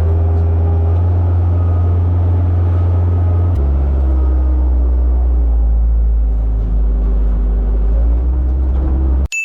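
An engine running steadily at idle, with a slight drop in engine speed about three and a half seconds in. It cuts off abruptly near the end.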